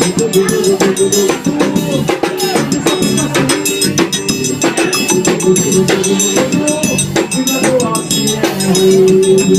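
A live forró band playing, with a drum kit's bass drum and snare keeping a steady beat under held melody notes.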